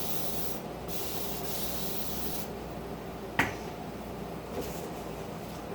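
Cleaning spray hissing in several bursts inside an emptied refrigerator, the longest in the first half and shorter, fainter ones near the end. A single sharp knock about three and a half seconds in.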